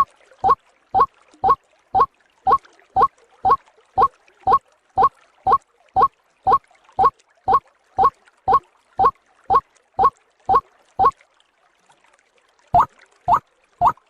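White-breasted waterhen (ruak-ruak) calling: a short, rising note repeated about twice a second. The calls break off for about a second and a half near the end, then start again.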